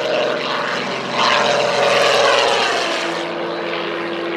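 Aircraft engine noise: a steady drone that swells about a second in and eases again, leaving a steady hum near the end.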